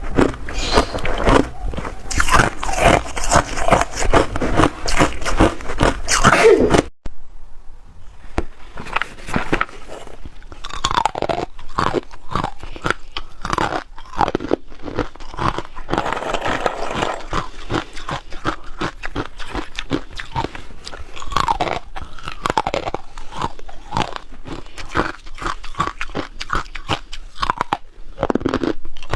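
Ice being bitten and chewed close to the microphone: dense, sharp crunching and cracking. The sound breaks off abruptly about seven seconds in, then the crunching carries on a little quieter.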